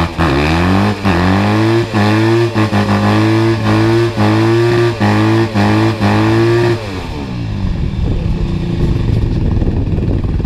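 Dirt bike engine revved hard during a burnout. The pitch climbs and holds high again and again, with brief dips as the throttle is blipped. About seven seconds in the revs drop away, leaving a rough, noisy rumble.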